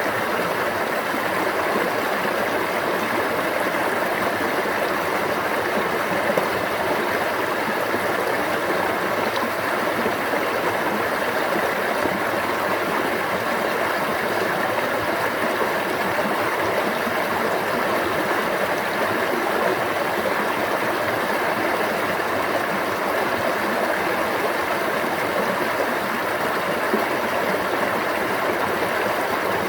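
Stream water running and babbling steadily over rocks, an even rushing wash with no pauses.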